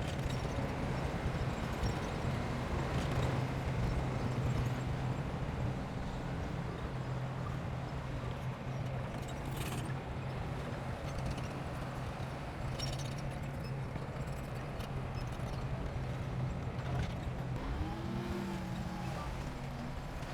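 Heavy earthmoving machine's diesel engine running steadily with a constant low hum, with a few short knocks and a brief wavering higher tone near the end.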